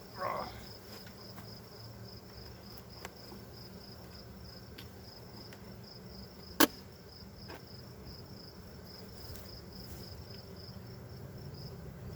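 Honey bees humming steadily around an open hive under a steady, high, pulsing insect chirp. A single sharp knock comes about six and a half seconds in.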